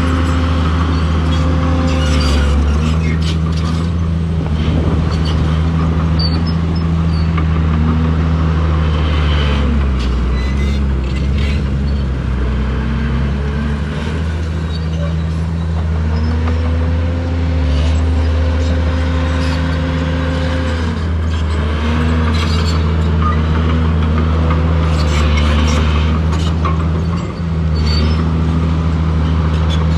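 Diesel engine of heavy earthmoving machinery working under load, its pitch rising and falling several times as it revs, with scattered knocks and clanks.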